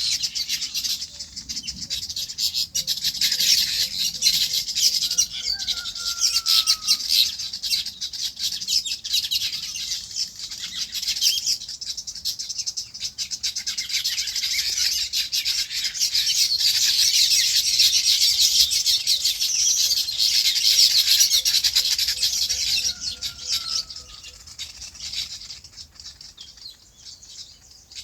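Many small birds chirping in a dense, continuous chatter that thins out near the end. A lower call sliding down in pitch sounds twice through it, each time just after a short run of low, even pulses.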